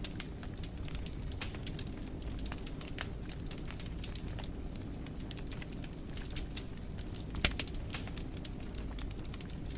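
Wood fire crackling in a fireplace: a steady low rumble of flames under frequent sharp pops and snaps, with one louder pop about seven and a half seconds in.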